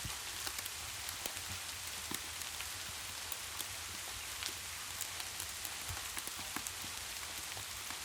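Steady rain falling, an even hiss with many scattered sharp ticks of drops and a low rumble underneath.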